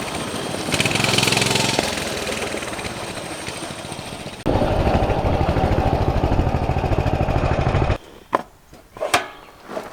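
Coleman CT200U mini bike's small single-cylinder engine running hard over rough ground. About halfway through it gets louder and pulses evenly, then cuts off suddenly, followed by a few knocks.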